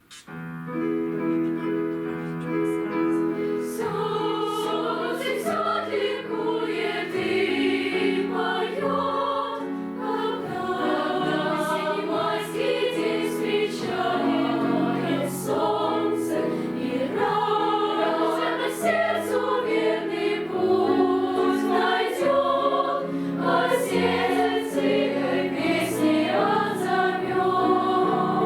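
Children's choir singing a spring song in several voices. Sustained chords open it, and the voices come in with a moving melody about four seconds in.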